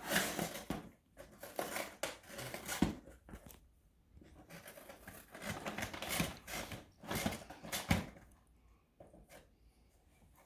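A dog rummaging in a box: bouts of rustling and scratching with short gaps between them, dying down near the end.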